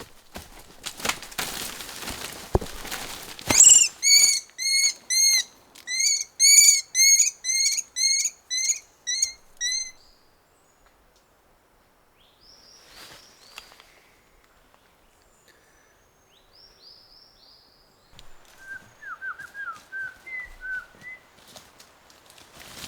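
A bird calling loudly in a quick series of about a dozen arched, repeated notes, roughly two a second, after a few seconds of rustling. Fainter, scattered chirps follow near the end.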